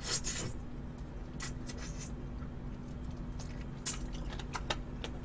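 A person chewing food close to the microphone, with scattered short wet clicks from the mouth and lips.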